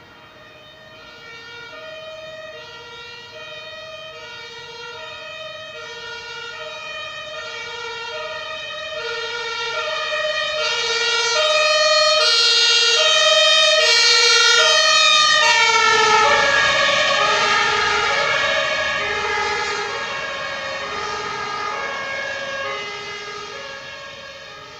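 Two-tone siren (Martinshorn) of a German fire engine, its two notes alternating at an even pace as it approaches, growing louder. About sixteen seconds in it passes, with the pitch dropping and a brief rumble from the truck itself, then fades as it drives away.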